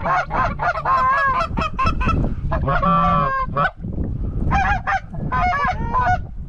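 A flock of geese honking, many quick calls overlapping in a steady chorus.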